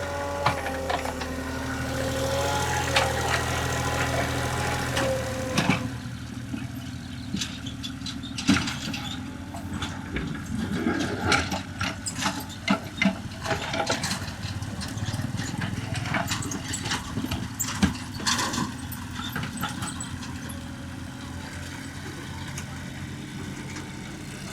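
Excavator's diesel engine running steadily, with a wavering whine over it for the first few seconds. From about six seconds in come many sharp knocks and clanks as the machine works in mud.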